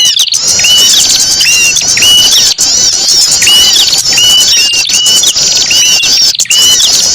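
Dense chorus of small songbirds chirping and twittering, played as a lure call for small birds: a sharp hooked note repeats about every half second to second over a thick layer of higher, rapid chirps.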